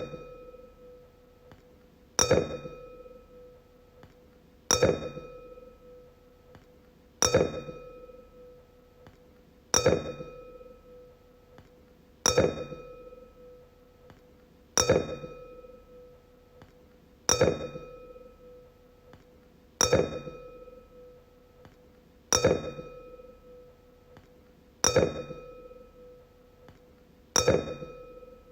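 Wine glass struck again and again, about every two and a half seconds. Each tap rings out in a clear, bell-like tone that dies away before the next strike.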